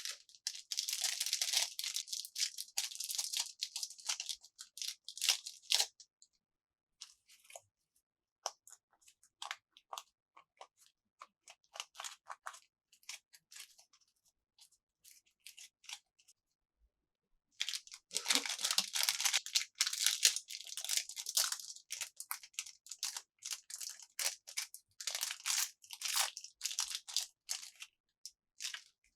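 Plastic candy packaging crinkling and crackling as it is handled and opened, in two long dense stretches, one at the start and one from a little past the middle, with scattered small crackles and clicks between them.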